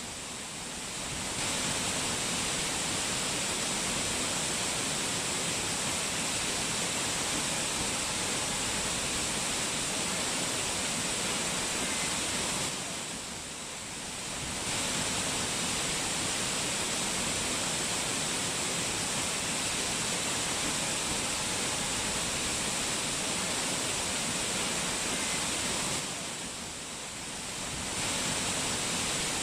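Fast-flowing water rushing steadily in a continuous hiss, dipping briefly in level three times, about every thirteen seconds.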